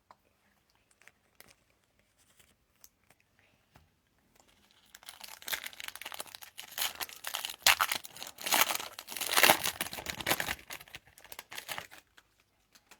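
A trading-card pack's foil wrapper being torn open and crinkled, a dense crackling run from about five seconds in until near the end, after a few faint clicks.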